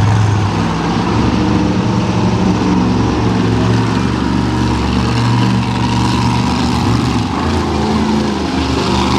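Monster truck engines running loud, their pitch rising and falling as they rev.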